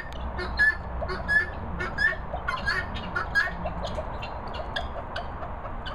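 Birds calling: a quick series of short, rising notes, one or two a second, thinning out and fading after about four seconds.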